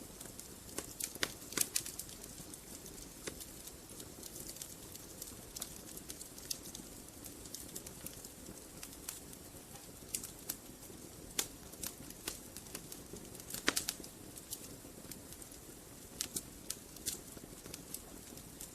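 Wood fire burning in a fireplace, crackling with irregular sharp pops over a low steady hiss. The loudest pops come about a second in and again about three-quarters of the way through.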